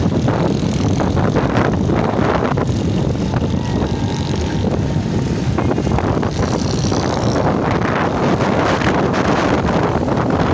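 Wind rushing over the microphone on a moving motorbike, mixed with the steady noise of the ride and the road traffic. A faint thin tone sounds for about a second near the middle.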